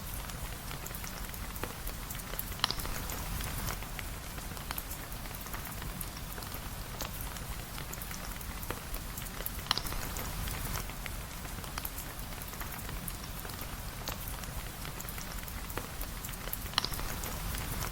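Steady rain pattering, with many fine ticks through it and three louder, sharper ticks about seven seconds apart.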